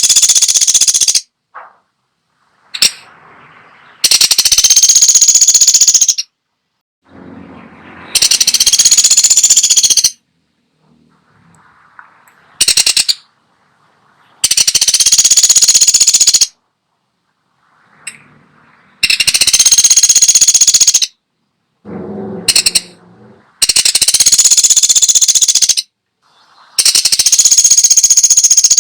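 Pelatuk sampit woodpecker calling in loud, very fast rattles, each about two seconds long, repeated every few seconds, with a couple of shorter rattles in between.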